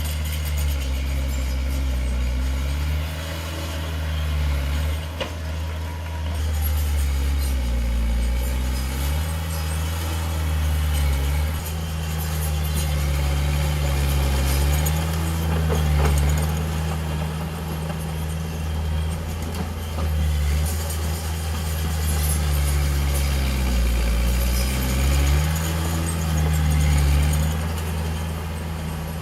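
Heavy diesel engine of earthmoving equipment running under load, its pitch dipping and rising again several times. A few short knocks come through over the engine.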